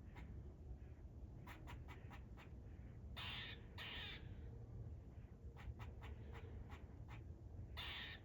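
Squirrel alarm calls warning of a threat: scattered short, sharp barks, with longer harsh calls about three and four seconds in and again near the end.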